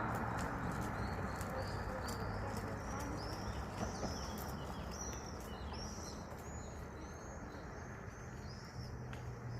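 Birds chirping: a string of short, arching high calls, one after another, over a steady low rumble.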